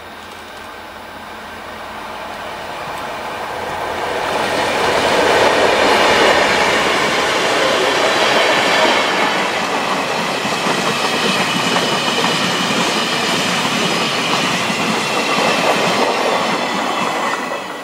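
A diesel-electric freight train passing close by: the Taiwan Railway locomotives come past, growing louder until about six seconds in. A long string of freight wagons then rolls by on the rails at a steady level, fading just before the end.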